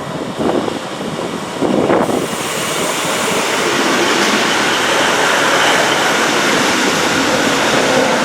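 A train passing close by: its steady rushing rumble builds about two seconds in and holds, after gusts of wind buffeting the microphone at the start.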